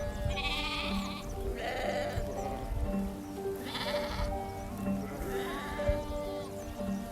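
Several short quavering bleats, one after another, over background music with a steady repeating melody.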